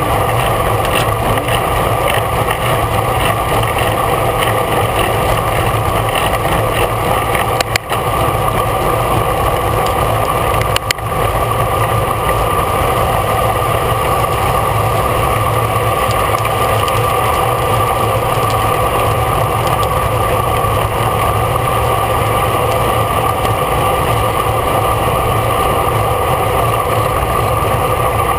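Steady road and wind noise from a bicycle moving at race speed, with a constant hum and two brief dips about 8 and 11 seconds in.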